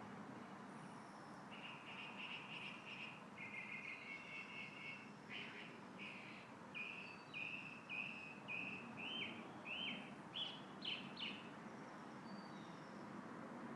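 A songbird singing one long song: two trills, then a run of about a dozen short notes spaced roughly two a second, the last few pitched higher. Underneath is a steady rustle of a light wind in a tree.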